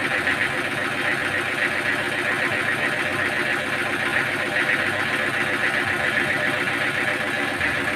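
Sawmill machinery running, a steady mechanical din with no breaks.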